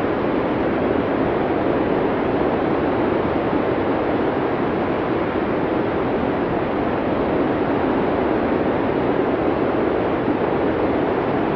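Blizzard wind blowing steadily, an even rushing sound without gusts or breaks.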